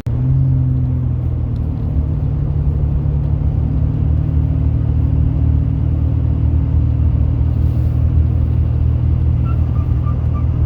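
Turbocharged car engine running steadily with an even low drone, holding a constant speed with no clear rise or fall in pitch. Near the end a faint high beep starts repeating about twice a second.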